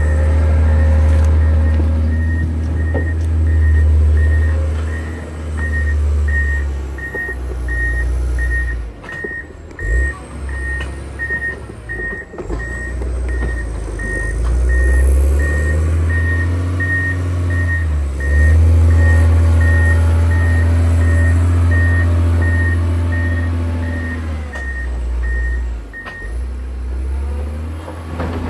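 Motor grader's diesel engine running under varying load, with its reversing alarm beeping steadily about once a second. The beeping stops near the end.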